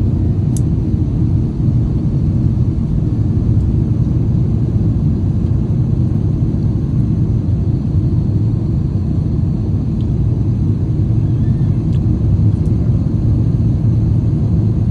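Airliner noise: a steady, unchanging low rumble of engines and airflow.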